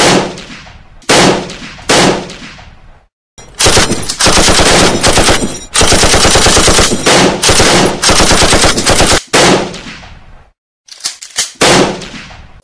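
Gunfire: three single shots, each with a fading echo, then about six seconds of rapid automatic fire, then a few more shots ending in a quick cluster.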